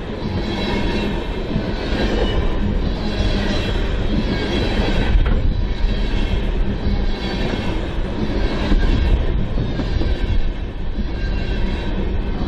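Tank cars of a unit oil train rolling past close by: a steady, loud rumble of steel wheels on rail, swelling and easing about once a second as the wheel trucks go by.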